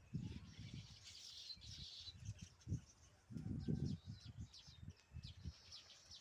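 Baya weaver birds chattering in a colony: a steady stream of short, high chirps. Irregular low rumbles run underneath.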